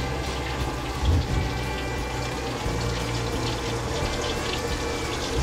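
Breaded conch pieces frying in a pan, a steady sizzle with a steady hum under it.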